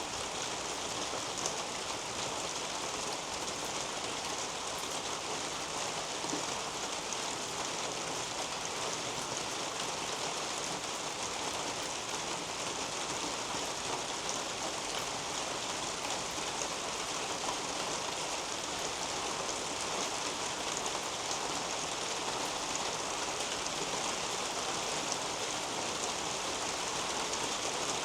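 Steady rain falling on the leaves of a potato patch and the garden soil beneath: an even hiss with scattered faint drop ticks.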